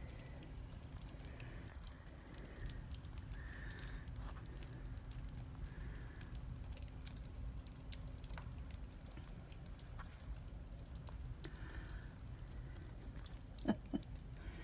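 Faint outdoor ambience with a low rumble and scattered light ticks, a few short faint chirps a couple of seconds apart, and a brief louder sound near the end.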